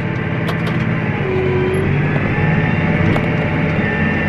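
John Deere tractor's engine running steadily, heard from inside the cab during an auto-steer end-row turn. It gets a little louder about a second and a half in, with a couple of light clicks over it.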